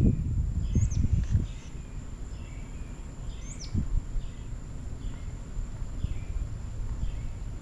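Small birds chirping at a backyard feeder: short chirps repeated every half second or so, with two sharp high notes that sweep downward, about a second in and again about three and a half seconds in. Low rumbling knocks, the loudest sound, fill the first second and a half.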